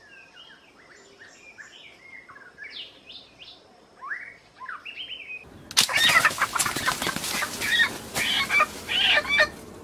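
Wild birds calling with short whistled, gliding chirps for about five seconds. Then loud rustling and crackling, with a few squeaky notes mixed in, for about four seconds.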